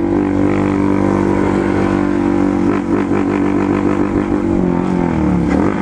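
A Honda CG Fan 150's single-cylinder engine with only an open exhaust pipe, held at high revs. The revs waver a few seconds in, then dip and climb again near the end.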